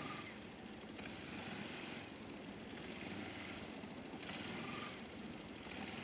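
Kawasaki Bayou ATV engine running in the snow, a steady rumble, with several short bursts of hissing noise over it, one every second or two.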